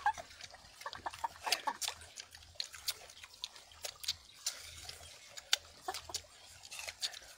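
Several people chewing and sucking on pieces of raw bilimbi (camias) fruit: irregular wet smacks and small clicks from their mouths.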